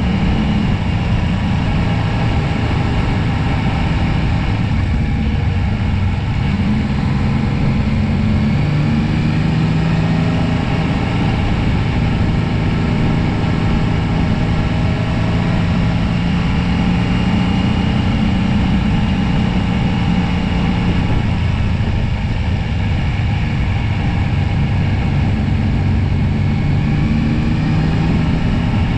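Yamaha Tracer 9 GT's three-cylinder engine running at road speed, its note rising and falling gently as the throttle changes.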